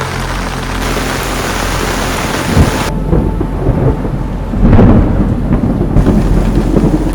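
Heavy rain hissing, then rolling thunder. About three seconds in, the high hiss of the rain drops away and a deep crackling rumble takes over, loudest a little past the middle.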